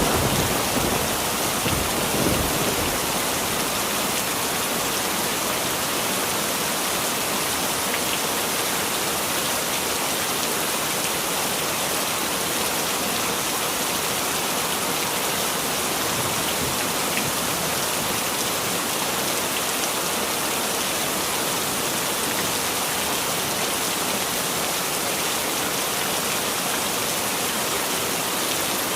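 Heavy rain falling steadily, with the last of a thunder rumble dying away in the first couple of seconds.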